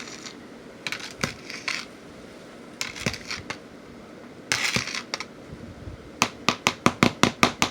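A stirring tool scraping through wet, food-coloured sand in a cup, with scattered clicks, then a quick run of about ten sharp taps near the end.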